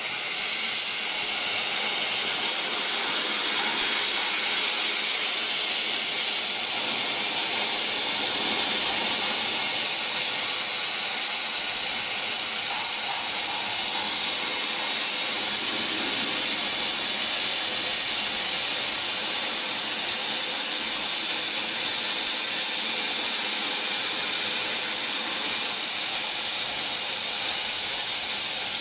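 Abrasive blasting nozzle running continuously: compressed air and grit jetting from the nozzle in a steady, loud hiss.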